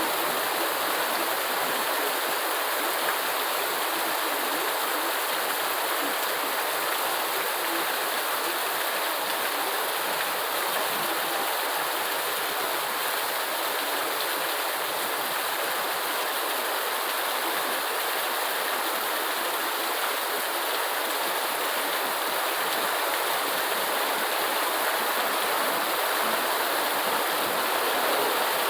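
Steady rain, an even, unbroken hiss of falling water with no single drops or pauses standing out.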